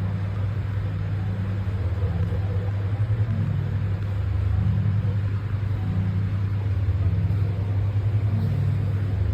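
Norwegian forest cat purring close to the microphone: a steady low rumble that swells and eases about once a second with each breath in and out.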